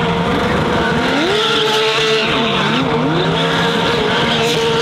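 Porsche 911 GT3 R race car's flat-six engine held at high revs during donuts, with tyres squealing and skidding. The revs drop and climb again a couple of times near the middle.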